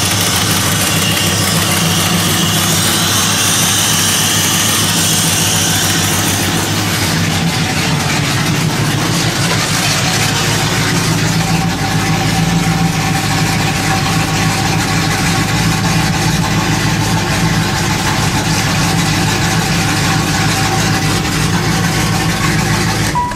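1994 GM LT1 5.7-litre V8 idling steadily at about 1000 rpm. A high hiss over the first several seconds is heard close to the engine bay, and the engine is then heard from inside the cabin, where a steady thin whine joins about halfway through.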